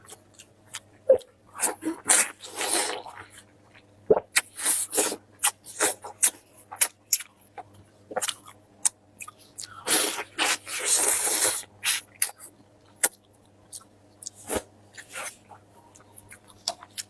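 Close-up eating of a chicken head: irregular crunching and chewing with sharp cracks, and two longer hissy sucking or slurping passages, one a couple of seconds in and a longer one about ten seconds in.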